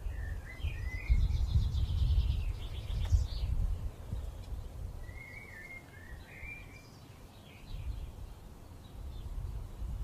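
Small birds chirping in short phrases, near the start and again around the middle, with a quick rattling trill in between. A low wind rumble on the microphone is loudest in the first few seconds.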